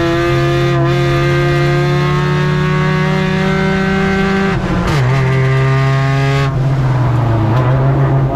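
Ford Ranger race truck's engine running hard at high revs, its pitch creeping up, then dropping sharply about four and a half seconds in as the throttle comes off, before picking back up and running rougher and more unevenly.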